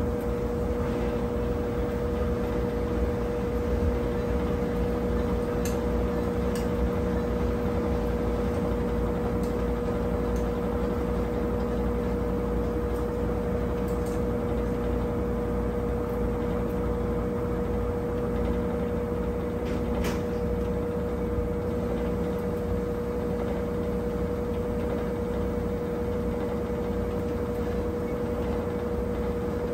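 Brastemp 17 kg top-load washing machine running with a steady mechanical hum and whine and a low rumble. The low part of the sound shifts and eases about twenty seconds in.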